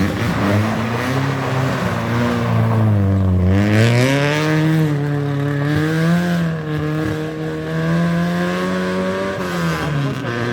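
Rally car engine revving hard on a stage: its pitch dips about three seconds in, climbs as the car accelerates, wavers with throttle and gear changes, then drops near the end as the driver lifts off.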